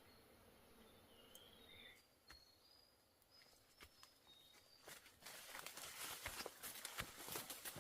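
Faint, short, high bird chirps over near silence. About five seconds in, a dense rustling and crackling of dry leaves or brush starts and grows louder, full of small snaps.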